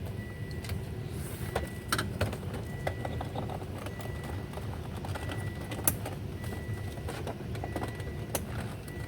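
Scattered light clicks and taps from hands working on parts inside the car door, a few sharper than the rest, over a steady low hum.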